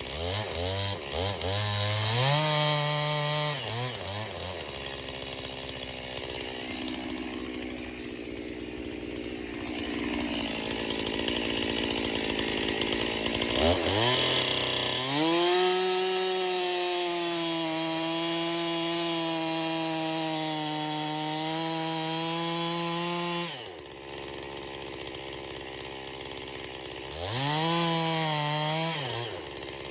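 Stihl MS261 two-stroke chainsaw with a 25-inch bar, revved up briefly, dropping back to idle, then held at full throttle for about eight seconds at a steady pitch, as when it is bucking a poplar log into firewood rounds. It drops back to idle, then gets another short rev near the end.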